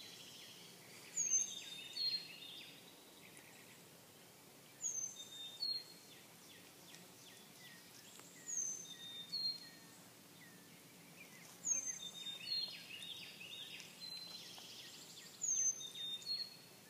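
A songbird singing a short, high two-note phrase over and over, about every three to four seconds, with fainter chirps between.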